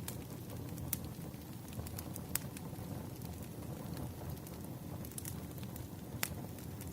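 Wood fire burning with a steady low rumble and scattered sharp crackles and pops, a few louder snaps among them.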